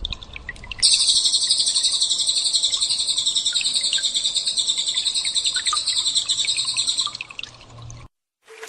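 A small songbird's 'tembakan' call: a loud, rapid, unbroken high-pitched trill lasting about six seconds that stops abruptly, preceded by a few scattered chirps. Right at the end a steady low tone starts.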